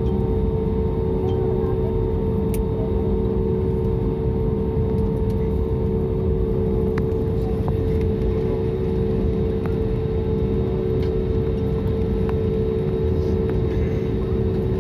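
Steady cabin noise of a jet airliner on the ground after landing: an even low rumble with a constant droning hum from the engines and air-conditioning.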